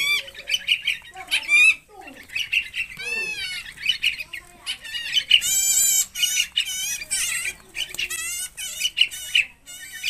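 Birds chirping and squawking in quick, overlapping high calls, busiest and shrillest around the middle.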